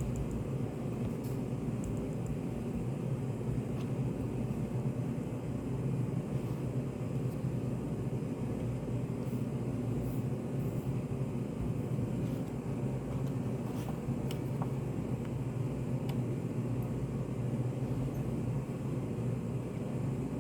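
Study cafe room ambience: a steady low hum with a few faint, scattered clicks and taps.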